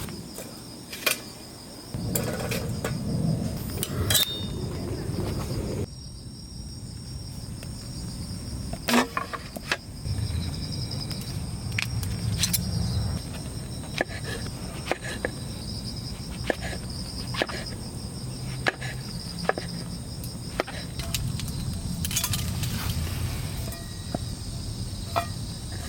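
Insects trilling steadily in two high, unbroken tones, with many scattered sharp clicks and ticks. The low background noise changes abruptly several times.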